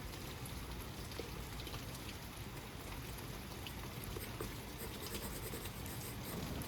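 Steady rainfall: a constant hiss of rain with scattered patter of individual drops and some trickling water.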